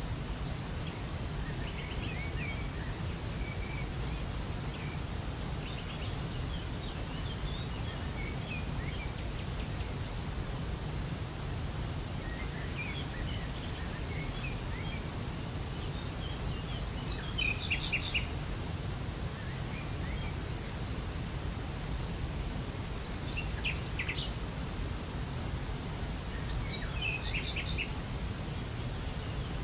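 Steady rush of a waterfall with small birds chirping and twittering over it; louder bird calls stand out three times in the second half.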